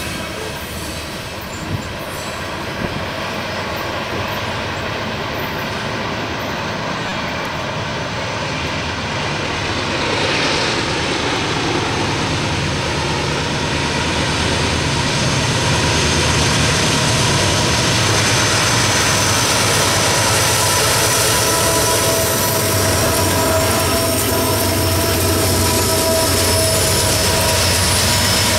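Freight trains passing close by: freight cars rolling on steel rails with a steady high wheel squeal, then a coal train's diesel-electric locomotives coming up and by, their engines adding a low rumble that grows louder from about halfway.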